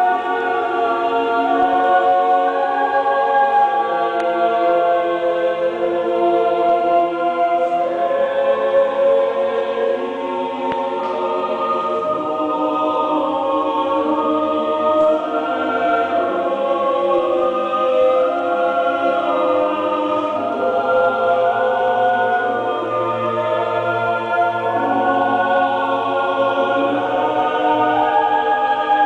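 A choir singing slow, held chords that change every second or two, with no beat.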